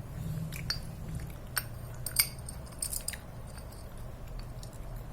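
A few sharp metallic clicks and taps from small parts of a bicycle freewheel being handled after oiling, the loudest a little over two seconds in, over a steady low hum.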